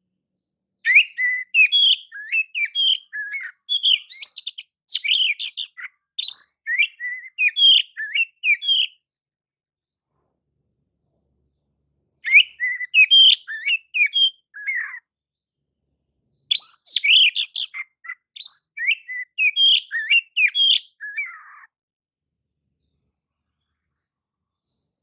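Oriental magpie-robin (kacer) singing, as a lure song: clear, fast, varied whistled and chattering phrases. They come in three bursts with silent pauses of a few seconds between them.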